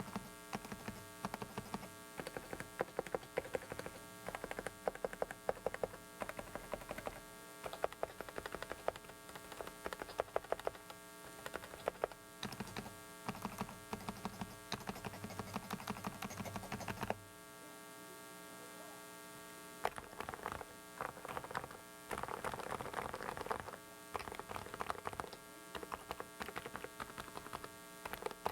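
Typing on a Dareu mechanical keyboard: a fast run of key clicks and clacks, pausing for a few seconds just past the middle and then starting again. A steady electrical hum from a faulty microphone runs underneath.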